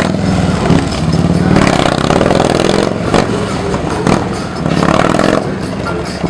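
Motorcycle engine running and revving unevenly, with a sharp knock about three seconds in.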